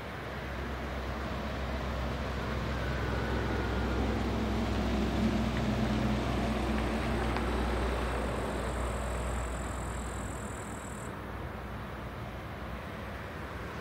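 Low engine hum of a motor vehicle, growing louder to its peak about five seconds in and then easing off.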